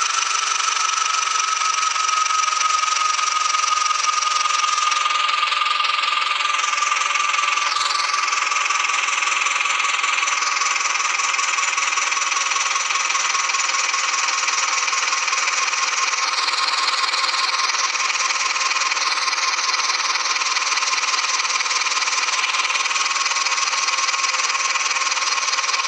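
Tractor engine running steadily, with a high whine that slowly drops in pitch.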